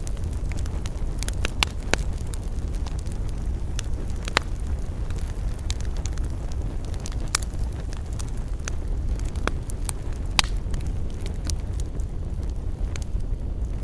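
Wood campfire burning, with frequent sharp crackles and pops scattered irregularly over a steady low rumble.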